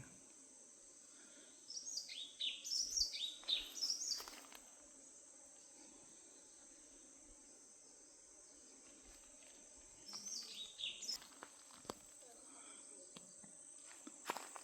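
Small birds calling in two bouts of quick falling chirps, over a steady high insect drone, typical of crickets or cicadas; a few faint clicks come near the end.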